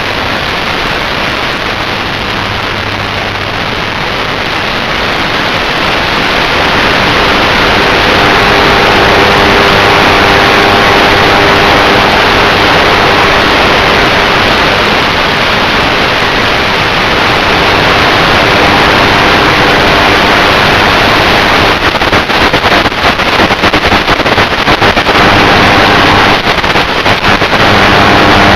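FPV aircraft's onboard camera audio in flight: loud, steady wind rush on the microphone with a faint motor whine underneath. It grows louder over the first few seconds and turns choppy and crackly near the end.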